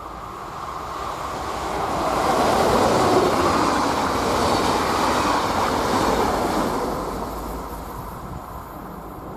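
A train passing on the line, its wheels and rails growing louder to a peak about three seconds in, then fading away.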